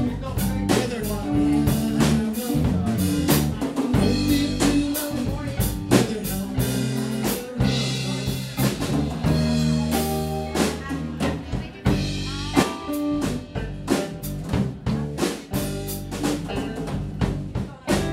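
Instrumental band music: a drum kit keeps a steady beat with rimshots and bass drum under a moving bass line, with no singing.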